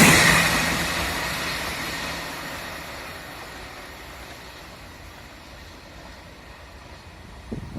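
Diesel-hauled passenger train fading away after passing, its rumble dying down over about five seconds to a faint hum. A few low thumps near the end.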